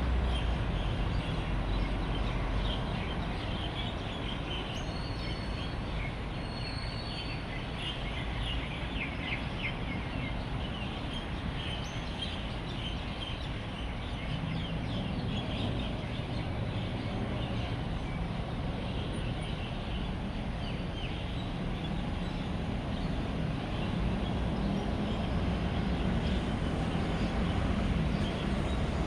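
Dense chattering of many birds at an evening roost, many short chirps overlapping, thickest in the first half and thinning later. Beneath it runs a steady rumble of road traffic that swells a little near the end.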